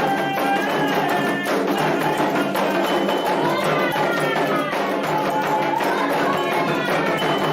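Candomblé ritual music: atabaque hand drums and a struck metal bell keep a steady rhythm under sung chanting.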